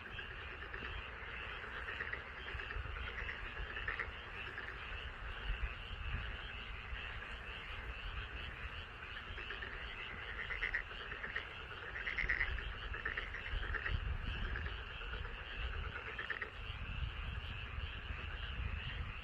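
A chorus of many frogs calling at once from a rice paddy, a dense, unbroken din with individual louder calls standing out every second or two.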